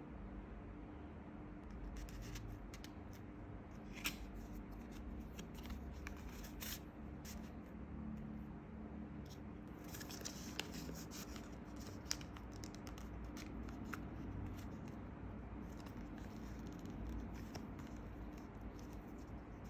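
Faint handling of a box and its packaging during an unboxing: scattered rustling and scraping, with a few sharp clicks about 4, 10 and 12 seconds in.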